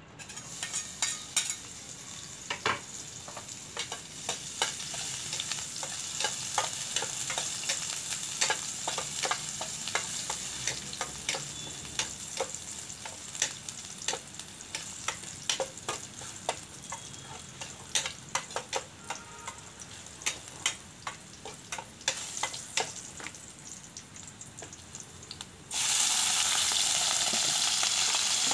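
Chopped garlic frying in a stainless steel pan, sizzling steadily while a metal spatula clinks and scrapes against the pan many times. Near the end the sizzle jumps suddenly louder as sliced chicken offal goes into the hot pan.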